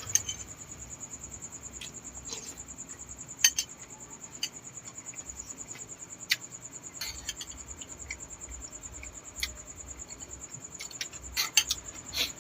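Close mouth sounds of eating balut: irregular sharp smacks and crunches of chewing. Under them runs a steady high-pitched trill like a cricket's.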